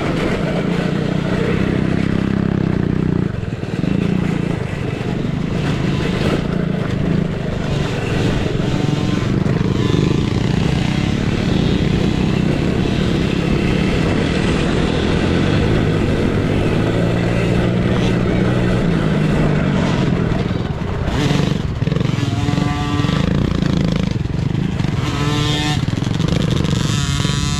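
Dirt bike engines running and revving on a motocross track, their pitch rising and falling throughout.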